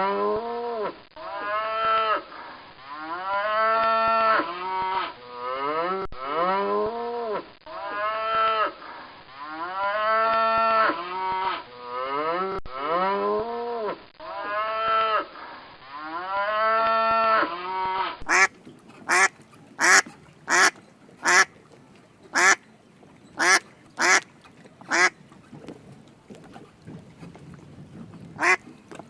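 A farm animal calling over and over, each call rising and falling in pitch, in groups of several calls. About eighteen seconds in, the clip cuts to a duck quacking in short sharp quacks, about one or two a second.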